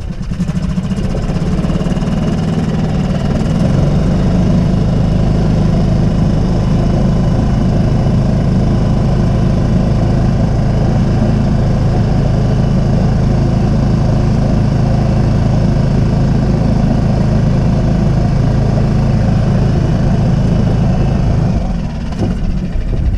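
A small yacht's engine, mounted in the cockpit, running steadily at low speed while the boat motors in. It eases off about a second and a half before the end.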